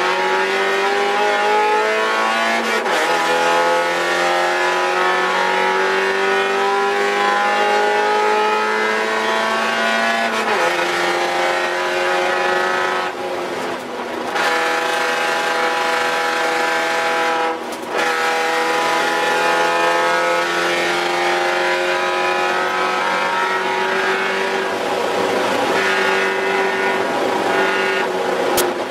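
Spec Miata race car's four-cylinder engine heard from inside the cabin, running hard at high revs: its pitch climbs steadily, drops sharply at gear changes and brief lifts several times, then climbs again.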